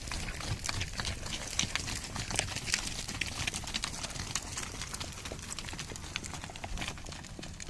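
Hoofbeats of a group of Icelandic horses tölting past, a dense run of irregular clip-clops that grows fainter near the end.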